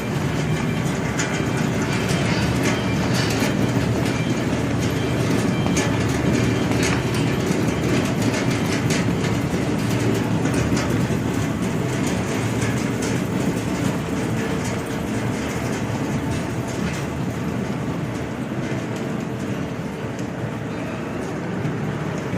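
Seed potato sorting and spraying conveyor line running steadily, with potatoes clattering along the belt in dense, irregular knocks.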